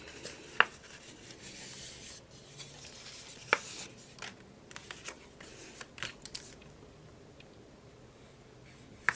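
Printed paper pieces being handled: rustling and sliding sheets, with a few sharp clicks, the loudest about half a second in, about three and a half seconds in and near the end.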